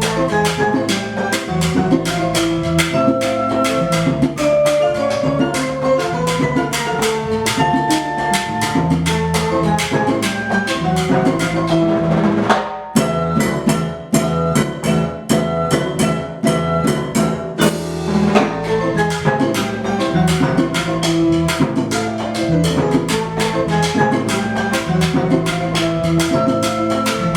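Percussion ensemble playing a fast, dense rhythm: drum strokes with melodic pitched notes ringing over them. The playing briefly thins out about 13 seconds in, then picks up again.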